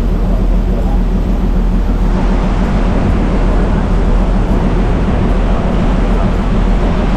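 River boat's engine running steadily with a low, even hum, under a rushing hiss that grows louder about two seconds in.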